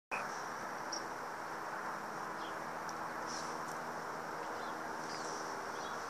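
Small birds giving short, high chirps, a few single calls spread a second or two apart, over a steady rushing background hiss with a faint low hum.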